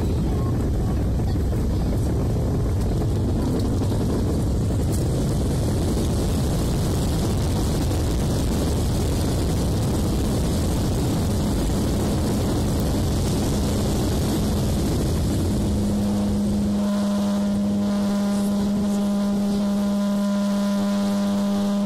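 Cabin noise of a Boeing jet airliner on final approach: a steady rumble of engines and rushing air. About two thirds of the way through the deep rumble drops away and a steady hum with overtones takes over.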